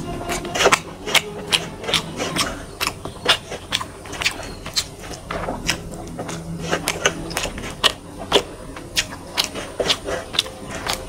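Wet chewing and lip-smacking of a mouthful of rice and fish curry eaten by hand, with sharp smacks at about two a second.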